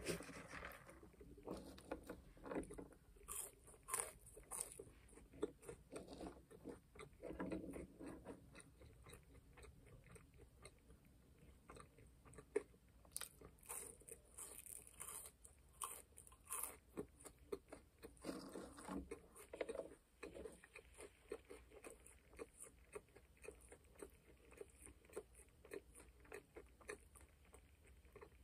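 Quiet, close-up chewing and mouth sounds of a person eating McDonald's french fries: many small wet clicks and lip smacks with soft bursts of chewing.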